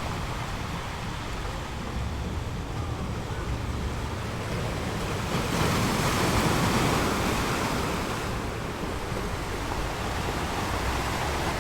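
Steady rushing noise, swelling a little past the halfway point and easing off again.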